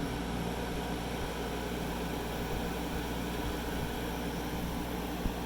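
Fedders A2Q10F2A 10,000 BTU window air conditioner switched on and running. A low steady hum, the compressor coming on, starts right at the beginning and holds under an even rush of fan air. The unit is running quietly for its size.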